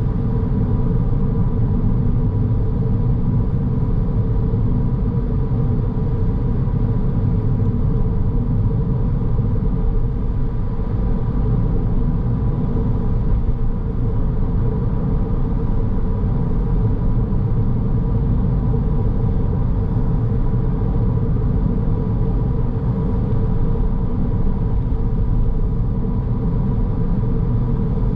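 Car driving along at a steady pace: an even low rumble of road and engine noise, with a faint steady whine over it.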